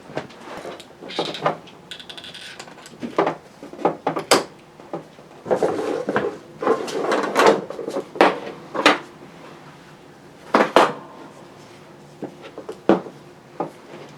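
Irregular knocks, clunks and rustling of objects being handled and set down in a small workshop, with the sharpest knocks about four seconds in and again around eight to eleven seconds.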